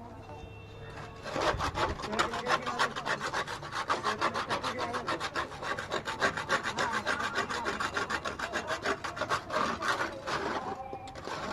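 Rapid, rhythmic scraping strokes of a hand tool, several a second, starting about a second in and stopping near the end.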